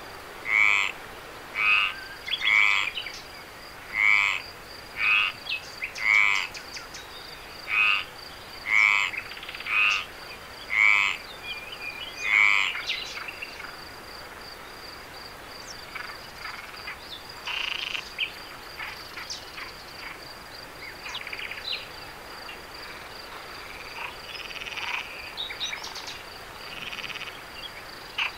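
A frog croaks over and over, loud pulsed calls about once a second, and stops about halfway through. Under it runs a steady high insect trill, with fainter scattered chirps and calls in the second half.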